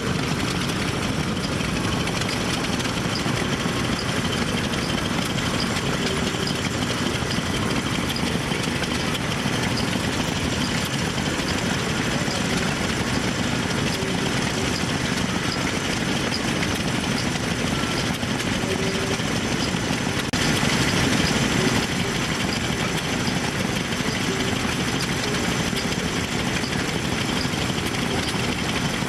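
Old engines running steadily in a dense mechanical din, a little louder for a second or two about two-thirds of the way through.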